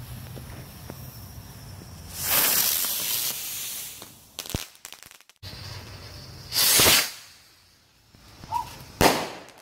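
Fireworks going off close by: hissing bursts of spark-spray, the longest about two seconds in, another near seven seconds and a brief one near nine, with a couple of sharp cracks in between.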